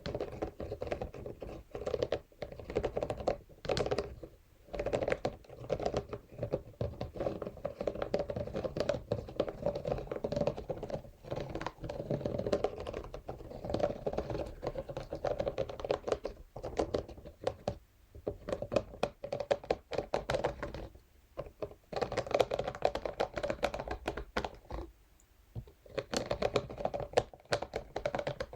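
Scalp massage brush bristles scratching and tapping rapidly on a surface: a dense run of small clicks, with a few short pauses.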